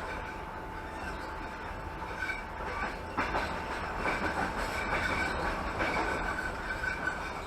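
Passenger train running along the line, heard from inside a carriage: steady rolling noise of wheels on rails with scattered clicks, and a thin high whine from about four seconds in.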